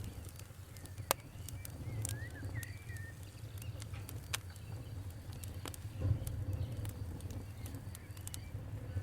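Campfire crackling: a low steady rumble of burning wood with sharp, irregular pops and snaps, the loudest about a second in and around six seconds in. A bird chirps briefly between about two and three seconds in.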